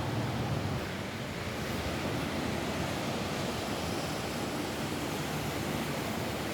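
Steady rain falling on a roof: an even, unbroken rushing noise.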